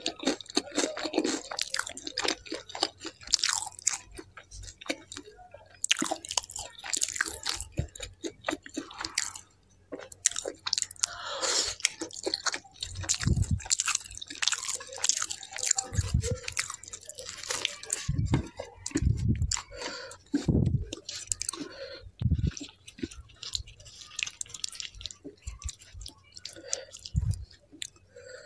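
Close-miked chewing of kadhai paneer curry and butter naan: a dense run of wet mouth clicks, smacks and squelches. Several dull low thumps come in the second half.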